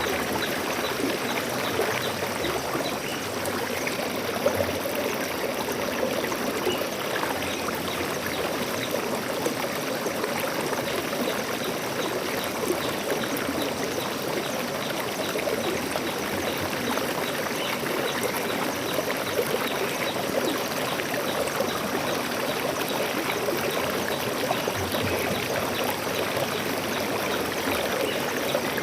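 Flowing water, a steady rushing and trickling that goes on without a break.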